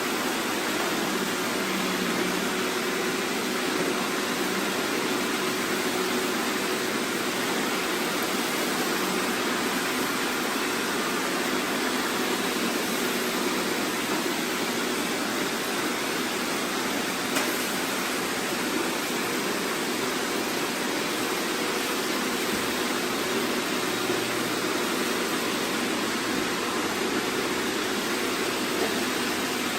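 Many robot vacuums running at once, their suction fans and brushes making a steady, even whirring hiss.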